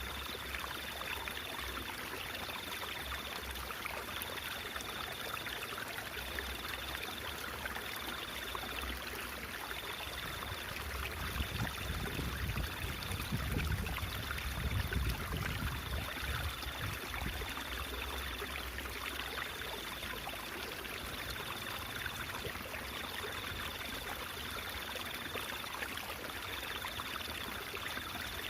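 Steady trickling and flowing of stream water, with a deeper rumble swelling for several seconds in the middle.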